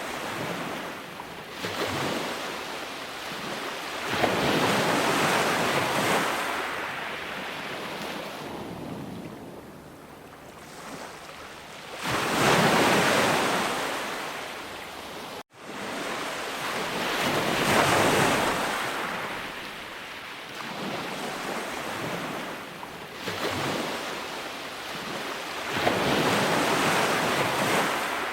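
Ocean surf: waves swelling and washing in, then fading, every several seconds, four surges in all. About halfway through there is a brief sudden cut in the sound.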